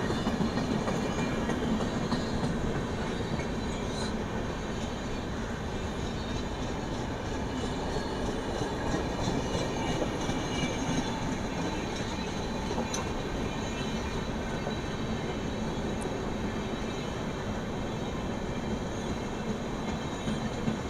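Indian Railways train running on the rails with a steady rumble of wheels and carriages. A few sharp clicks stand out.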